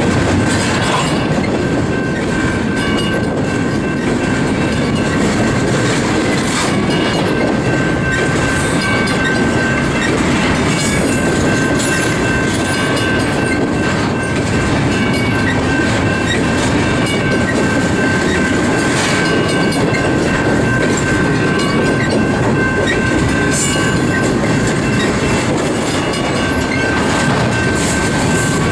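Freight cars of a Union Pacific intermodal train rolling steadily past, wheels clicking over rail joints, with a steady high-pitched wheel squeal running through most of the passage.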